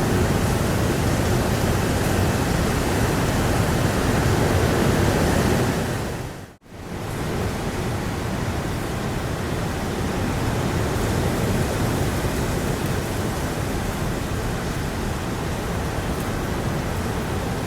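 Heavy rain and blustery wind making a steady, dense hiss. About six and a half seconds in it dips briefly almost to silence, then comes back a little quieter.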